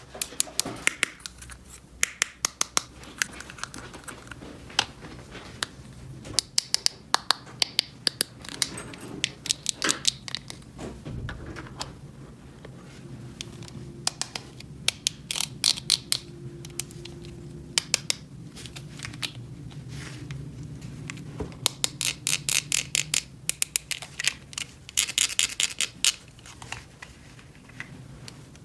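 Small plastic toy pieces being handled, with many sharp clicks and taps and some scraping; the clicks come in quick runs at times, most densely in the second half.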